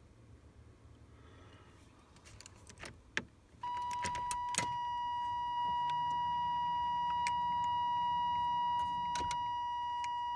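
Keys clicking in a vehicle's ignition, then a steady electronic warning tone that sounds continuously for about seven seconds before cutting off, with a faint low hum under it partway through; the engine is not yet running.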